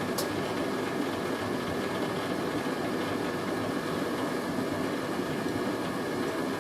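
Hoover A3060 Electronic 1100 washing machine running steadily, its motor turning the drum at distribution speed to spread a heavy, waterlogged sofa throw before the spin. One sharp click comes just after the start.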